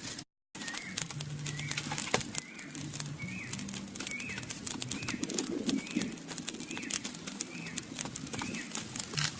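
A bird calling over and over, a short rising-then-falling note about every two-thirds of a second, over a scatter of sharp clicks and a low on-and-off hum.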